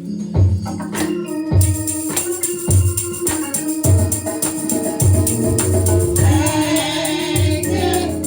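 Live gospel praise band playing between songs: organ and a bass beat, with jingling hand percussion coming in about a second and a half in and voices joining near the end.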